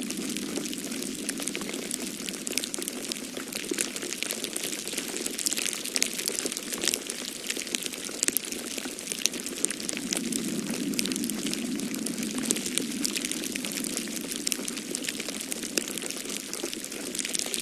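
Wood fire in a fireplace crackling, with many sharp pops and snaps, over a low rushing of storm wind that swells and fades twice.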